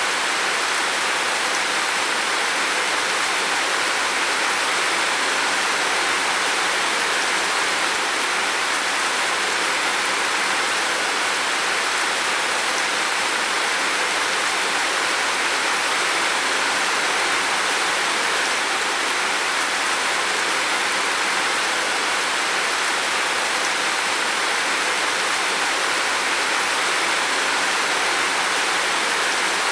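Heavy rain falling steadily on a roof, an even, unbroken hiss of water.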